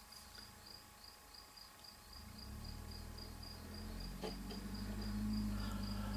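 A cricket chirping steadily in a fast even pulse. From about two seconds in, a low rumble builds up underneath and becomes the loudest sound, with a faint click or two.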